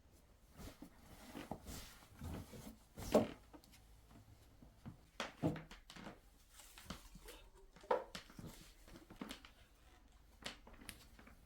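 Irregular light knocks and thuds of objects being handled and set down, about a dozen over several seconds, the loudest about three seconds in and again near eight seconds.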